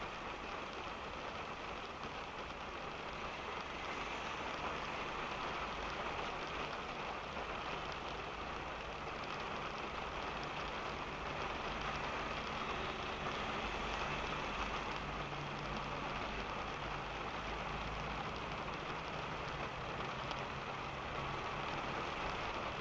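Steady rain falling on a car, heard from inside the cabin while it is being driven, over a low, even rumble of engine and road.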